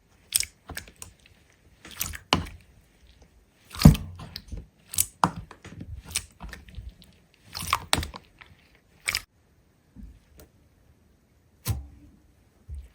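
Irregular crunches and clicks, in clusters of quick strokes with short pauses between, going quiet for a couple of seconds near the end.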